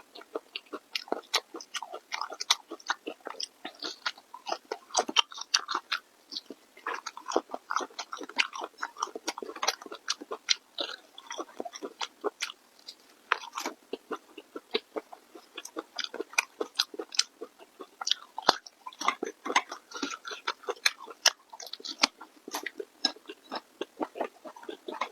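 Close-miked chewing: a person eating, with rapid, irregular wet smacking and clicking mouth sounds.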